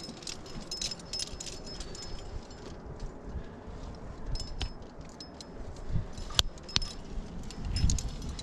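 Metal climbing hardware (carabiners and gear on a harness) clinking and jangling in scattered light, ringing clinks as the climber moves, over low handling rumble.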